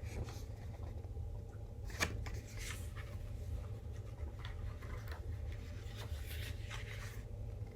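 Light paper rustling and soft clicks as glossy album photobook pages are handled and turned, with one sharper tap about two seconds in, over a steady low hum.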